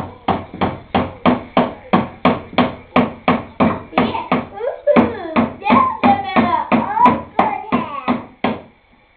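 A hammer driving nails into wood, in a steady run of quick blows about three a second that stops shortly before the end.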